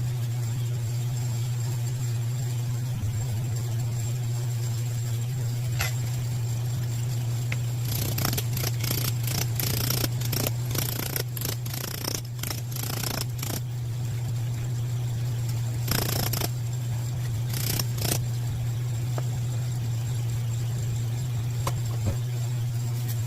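Steady low hum of running shop equipment, with light clicking and rattling of small parts as valve springs and seals are handled and fitted onto a cylinder head. The clicking comes in a dense run of several seconds starting about a third of the way in, then in two short bursts a little later.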